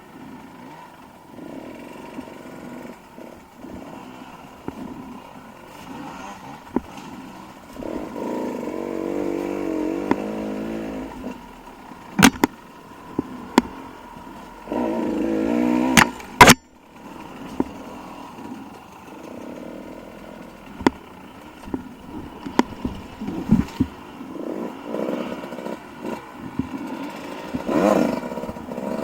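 Dirt bike engine running and revving up and down over rough ground, with two louder bursts of throttle about eight and fifteen seconds in and a few sharp knocks.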